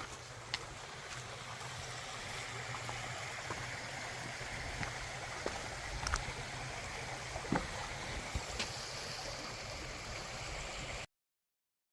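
Whole pork belly sizzling on a grill over a wood fire: a steady hiss with scattered pops and crackles. It cuts off suddenly near the end.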